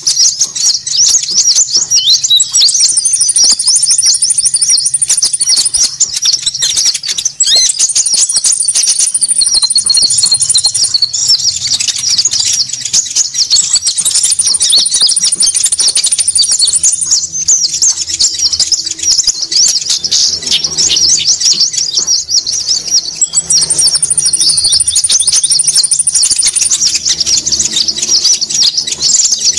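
Bird-lure recording of konin birds calling noisily: many small birds chattering in a dense, rapid, high-pitched stream, broken four times by a thin, very high trill held for about three seconds.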